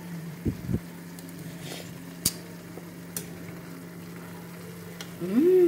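Chop suey vegetables sizzling softly in a frying pan over a steady low hum, with a few knocks and clicks of a utensil on the pan. Near the end comes a short hummed vocal sound that rises and falls in pitch, the cook's "mmm" on tasting the dish.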